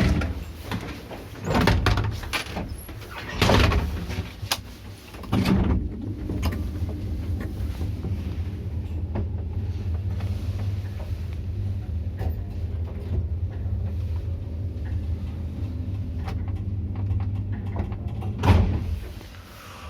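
Passenger elevator with swing shaft doors: several door bangs and clunks as the doors shut, then the car travelling with a steady low hum for about thirteen seconds, ending in a heavy thud as it stops.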